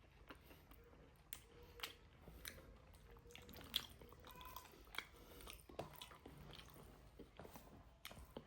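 A person chewing and eating pork with rice close to the microphone, with soft, irregular wet smacks and clicks of the mouth.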